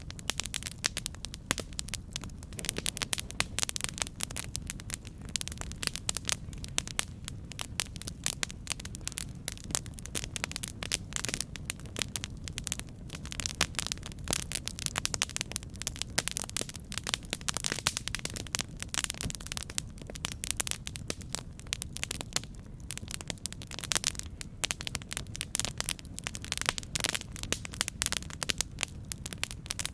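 Campfire burning with dense, irregular crackling and popping over a steady low rumble.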